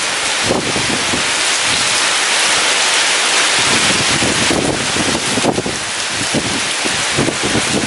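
Heavy rain falling steadily in a storm, with gusts of strong wind buffeting and rumbling underneath.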